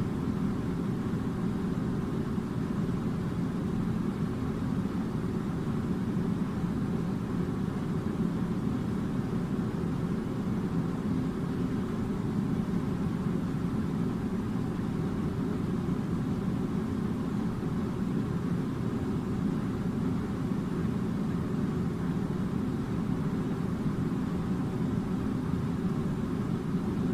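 Air conditioner running with a steady low drone that does not change.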